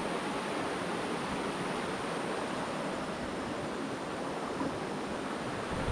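River water flowing: a steady rushing of water.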